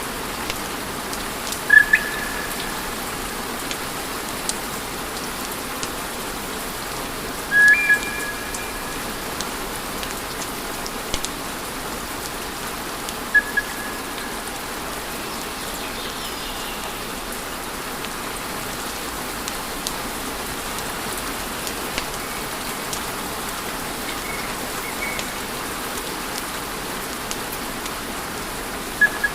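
Wood fire in a fireplace crackling and hissing steadily, with a few short, high whistles now and then.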